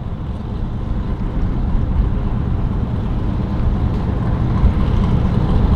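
Boat's outboard motor running steadily and slowly getting louder, with wind noise on the microphone.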